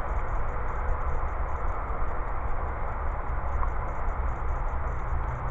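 Steady background noise with a low rumble, under a faint, regular high ticking about four times a second.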